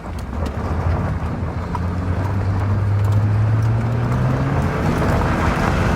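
A car engine pulling, its pitch creeping up for a few seconds, under a loud rush of wind that grows stronger. These are the gusty rear-flank-downdraft winds near a tornado, buffeting the moving car.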